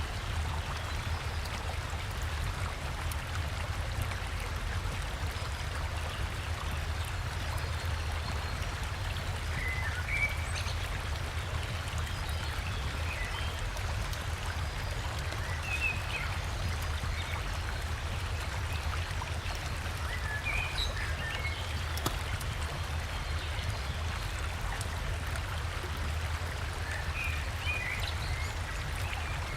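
Steady rushing of a river and small waterfall, with scattered short bird chirps starting about a third of the way in.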